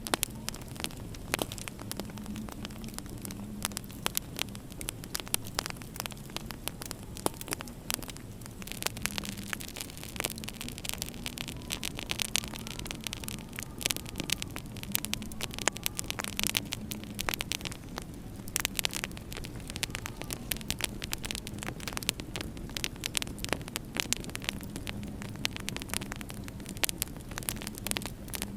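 Wood fire crackling in a fireplace, with many small sharp pops at irregular intervals over a steady low hum.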